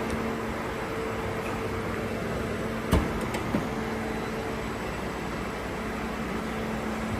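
Geely Tugella car running with a steady hum, with a short sharp knock about three seconds in and a lighter one just after.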